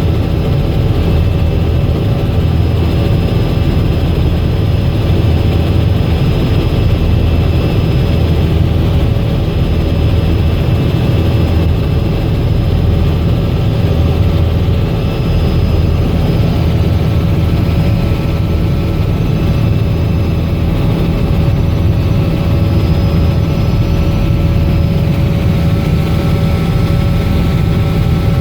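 Robinson R66 helicopter running steadily: its Rolls-Royce RR300 turboshaft engine and rotor make a loud, even rumble with a few steady whining tones over it.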